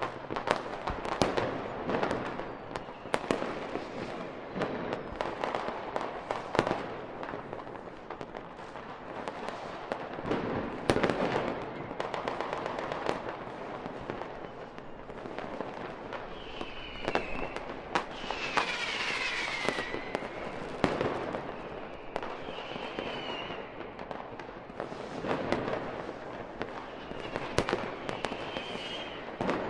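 Fireworks going off in quick succession: repeated bangs and crackling throughout. In the second half several short whistles glide in pitch, one falling steeply.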